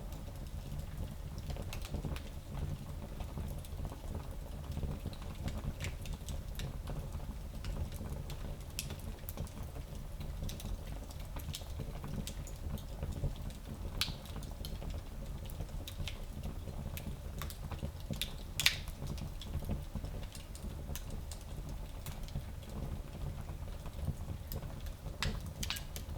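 Small wood fire in a fireplace crackling, with a steady low rumble under scattered sharp pops and one louder pop a little past two-thirds of the way through.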